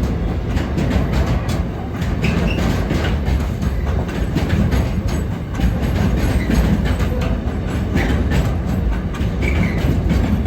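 Freight train rolling past at a level crossing: a steady heavy rumble of wagons with a rapid clatter of wheels over rail joints and a few faint brief squeals from the wheels.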